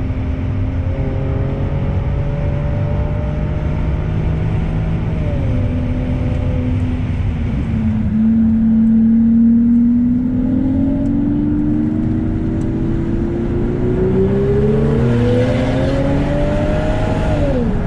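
Car engines on the road under way, with no speech: one engine's pitch climbs slowly over several seconds of acceleration and drops sharply near the end as it lifts off or changes gear, over a steady lower engine drone.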